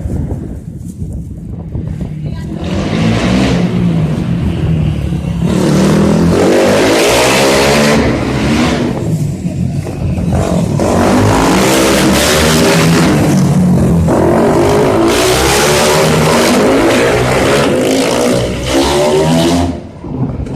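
250 cc motorcycle engines revving hard, the pitch rising and falling again and again. The sound builds about three seconds in and drops away just before the end.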